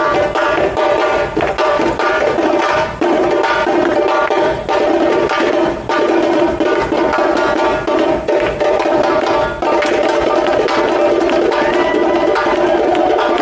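Samba percussion band (bateria) playing a loud, dense samba rhythm of drums and percussion, with steady pitched tones running under it.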